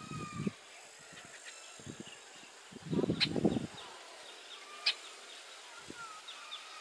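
Strong wind gusting against the microphone in low rumbles, briefly at the start and more strongly about three seconds in, with a sharp click inside that gust and another near five seconds. Faint, short high chirps of birds sound throughout.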